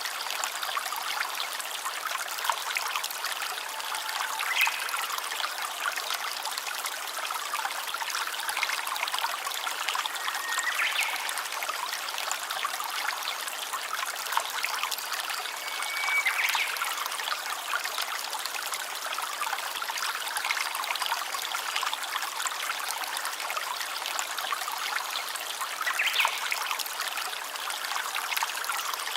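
A small stream trickling and babbling steadily over stones, with a few brief higher notes now and then.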